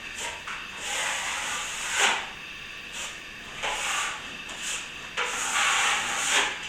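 Steel plastering trowel scraping across setting plaster in a few long strokes with shorter ones between, as a skim coat is polished towards a smooth finish.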